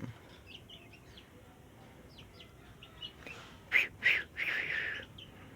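Sooty-headed bulbul giving short, scattered chirps rather than full song, with a few louder, harsher notes about three and a half to five seconds in; it is still not singing.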